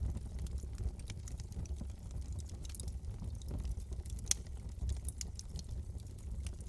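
Wood fire burning in a fireplace: a steady low rumble of flames under many small crackles and pops from the burning wood, with one sharper pop about four seconds in.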